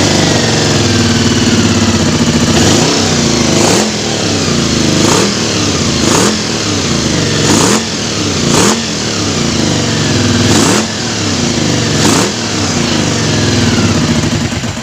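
Honda VFR400's V4 engine running on its freshly overhauled carburettors, the throttle blipped about eight times so the revs rise and fall between spells of running.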